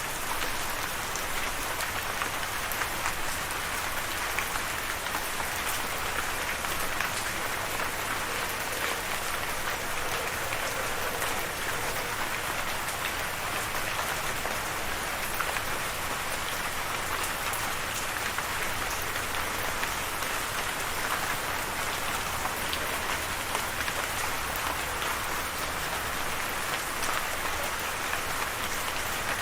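Steady rain falling, heard as an even hiss with many small drop ticks through it.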